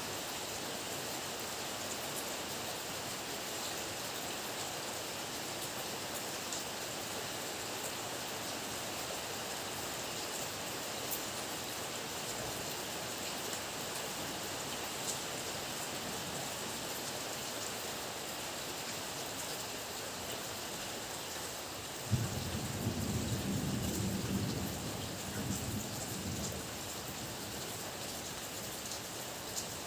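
Heavy rain falling steadily in a dense, even hiss. About two-thirds of the way in, a sudden low thunder rumble breaks in and rolls on for about four seconds before fading back under the rain.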